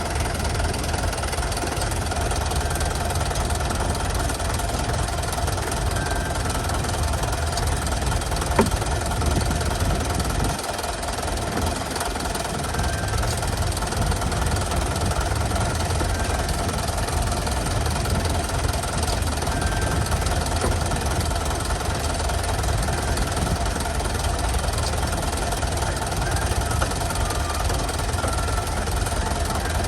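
An engine running steadily at idle with a low rumble, and one sharp click about eight and a half seconds in.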